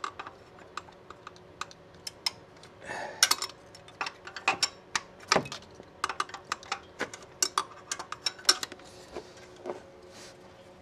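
Irregular light clicks and clacks of hand tools and parts being handled during engine disassembly, with a couple of brief scrapes, over a faint steady hum.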